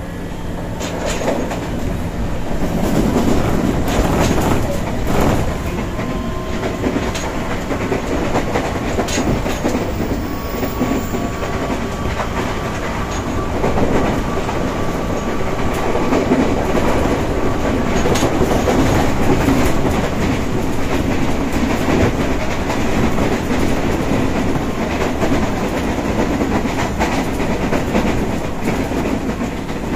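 Running noise heard inside a JR 203 series electric train's motor car at speed: a steady rumble with wheels clacking over rail joints, growing louder about two seconds in, and a faint steady whine for several seconds midway.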